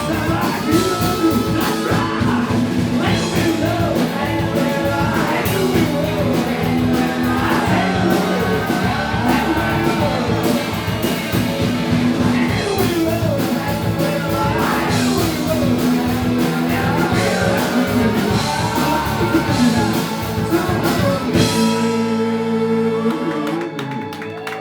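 Live rock band playing with a lead vocal over guitar, bass and drums. About three seconds before the end the drums and bass drop out, leaving a held chord ringing.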